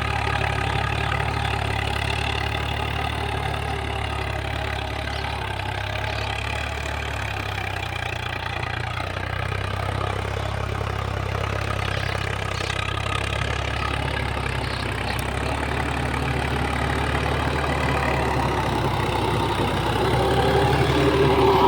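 Swaraj 855 FE tractor's three-cylinder diesel engine running steadily, growing a little louder near the end.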